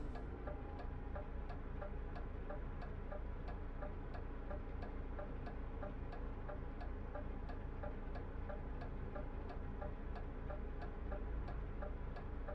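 Turn-signal indicator ticking steadily in a truck cab, about three ticks a second, over the low, steady drone of the truck's engine.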